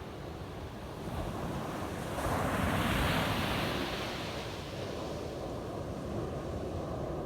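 Ocean surf on a beach: a wave breaks, its rushing noise building about two seconds in, peaking, then slowly fading as it washes out.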